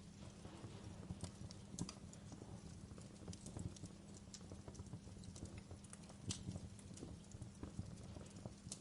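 Wood fire crackling in a fireplace: irregular small pops and snaps, several a second, over a low steady rumble of the flames, with a couple of sharper snaps about two and six seconds in.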